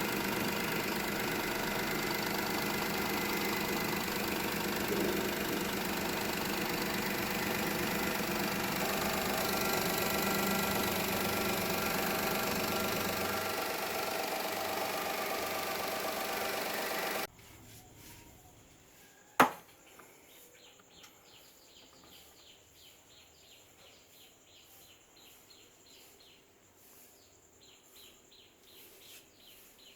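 Car engine running steadily, then cut off suddenly about two-thirds of the way through. A single sharp click follows, then faint rapid ticking.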